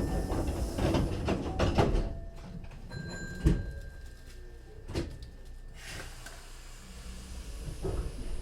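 Hankyu 3300-series train car moving off from a station, heard from inside: a low running rumble with a run of knocks and clunks in the first two seconds, then single sharp clunks about three and a half and five seconds in.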